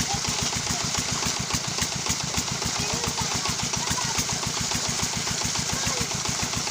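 25 hp Petter-type diesel engine running steadily under load, driving a tubewell pump, with a rapid, even exhaust beat.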